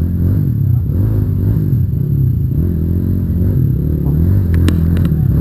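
A vehicle engine running under load on a trail climb, its revs rising and falling throughout. A few sharp clicks come near the end.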